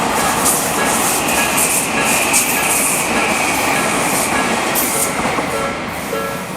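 Electric train passing over a level crossing, a dense rush of wheel and rail noise with clatter, while the crossing's electronic warning bell rings at a slow tempo underneath. Near the end the train noise fades and the bell's repeating tones come through more clearly.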